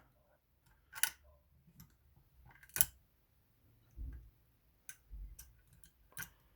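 Lever pick and tension tool working inside a five-lever Union 3G110 lock: a few sharp metallic clicks a second or two apart, the loudest about three seconds in, with a couple of soft knocks.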